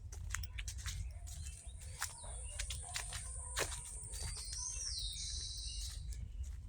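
Birds chirping and calling in woodland, with a short buzzy call that rises and then holds near the end. Over it run a steady high thin whine, scattered sharp clicks and crackles, and a low rumble.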